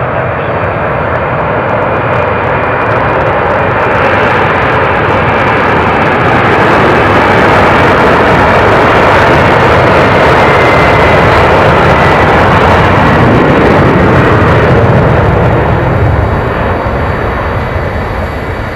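Boeing 767-300 twin jet engines at takeoff thrust: loud, steady jet noise that builds to its loudest through the middle and fades near the end as the airliner passes and climbs away.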